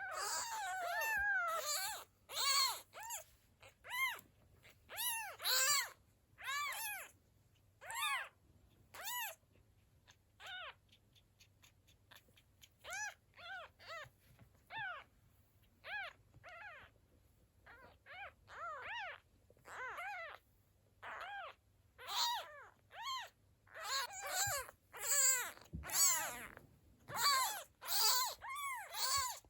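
Kitten mewing over and over: short, high calls about one a second, each rising and then falling in pitch. The first call is longer.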